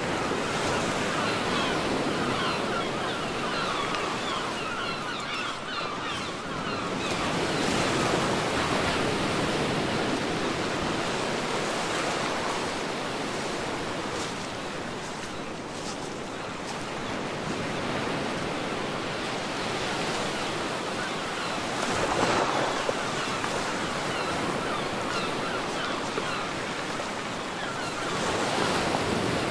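Ocean waves breaking and washing up a beach, a steady surf rush that swells louder about a third of the way in, again about three quarters through, and once more near the end.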